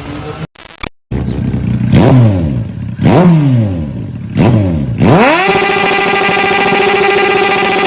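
Honda CBR sportbike engine revved through the exhaust: three quick throttle blips, each rising sharply and falling away, then held at a steady high rpm.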